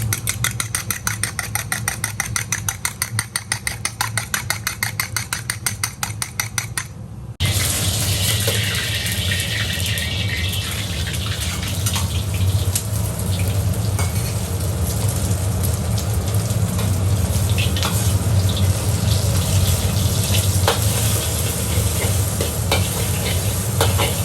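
Fast, even knocking, about six strokes a second, for the first seven seconds. Then an abrupt change to rice noodles and mushrooms stir-frying in a wok: a steady sizzle with scattered clicks and scrapes of the metal spatula, over a low, steady hum.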